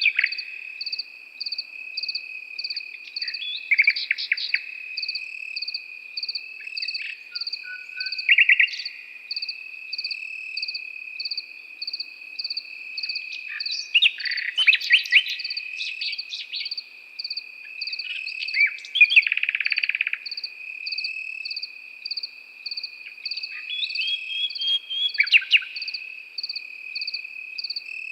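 Common nightingale singing short, varied phrases every few seconds, including rapid rattling runs, the longest and loudest about two-thirds of the way in. Under it, crickets chirp in a quick, even pulse over a continuous high insect trill.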